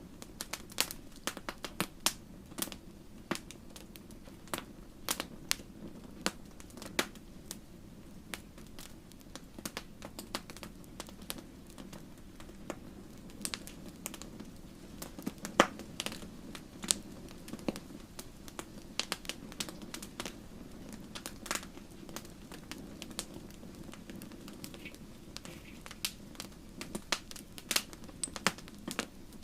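Wood fire in a fireplace crackling, with irregular sharp pops and snaps over a steady low hiss of burning. One pop about halfway through is louder than the rest.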